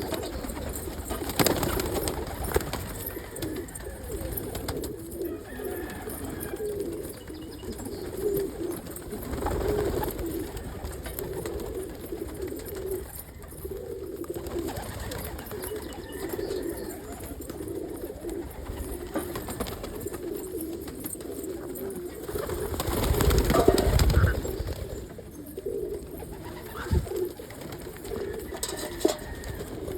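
A flock of domestic pigeons cooing steadily together, many overlapping calls. A brief louder rush of noise rises and falls about 23 seconds in.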